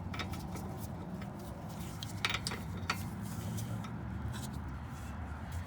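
A few light metallic clinks of hand tools, a wrench and socket being handled, over a steady low background rumble.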